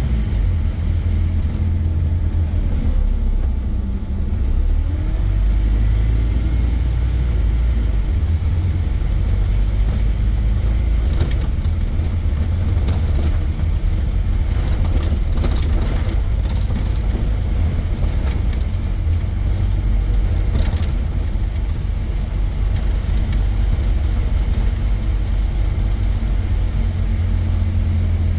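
Scania N230 bus's diesel engine running under way with a steady low rumble; its pitch falls and rises a few seconds in as the revs change. Short clicks and rattles come through in the middle.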